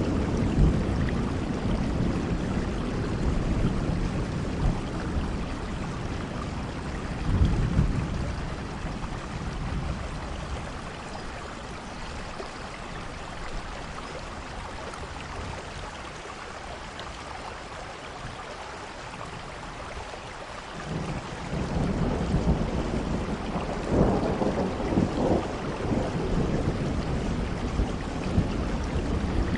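Steady rain falling with rolling thunder. The rumbling dies away through the middle, leaving the rain hiss alone, then builds again about two-thirds of the way through.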